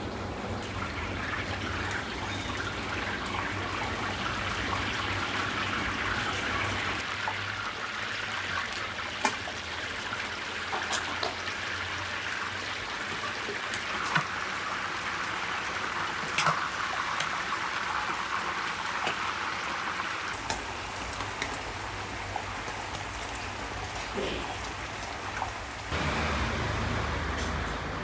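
Chicken pieces sizzling as they fry in a wide pan of hot oil: a steady dense hiss with scattered sharp pops and crackles. Near the end it gives way to a low steady rumble of street traffic.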